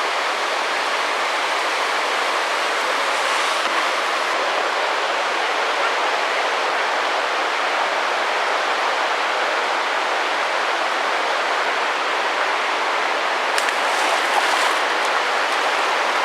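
Steady, even rush of river water, with a few faint splashes late on.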